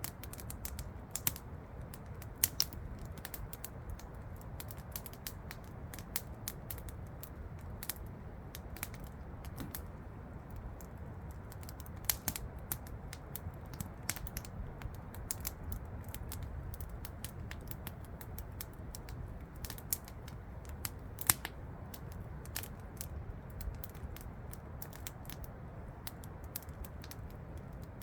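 Wood campfire crackling and popping in irregular sharp snaps, a few louder pops among them, over the steady rush of a waterfall.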